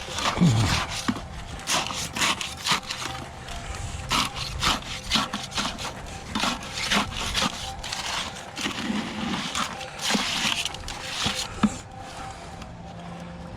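Irregular scraping and rubbing strokes, a few a second, with a dull thump about half a second in.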